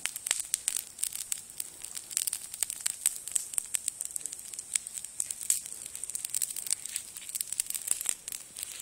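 Campfire burning a large evergreen tree, crackling with a rapid, irregular stream of sharp pops and snaps.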